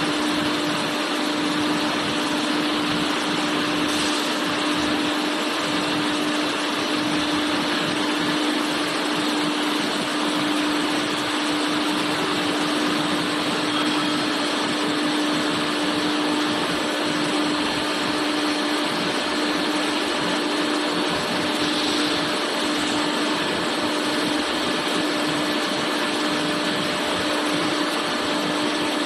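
A machine running steadily: an even whirring noise with a constant hum.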